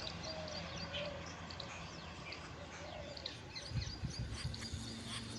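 Jungle babblers calling: many short, quick chirping notes overlapping from several birds at once, with some low rumbling about four seconds in.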